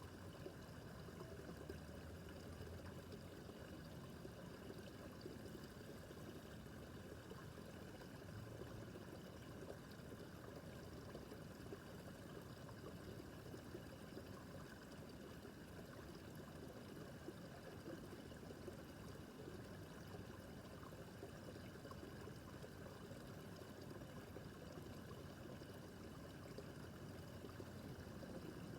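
A small brook babbling over stones: steady, faint running and trickling water.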